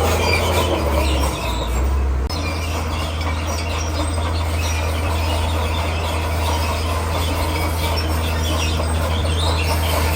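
Komatsu D41P crawler bulldozer working rock, its diesel engine running steadily with a continuous clatter and grinding from its steel tracks and the rock. There is a short dip in level about two seconds in.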